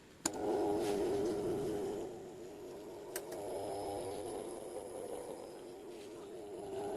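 A click, then a small electric motor starts and runs with a steady, wavering hum, loudest for the first couple of seconds. A second click comes about three seconds in.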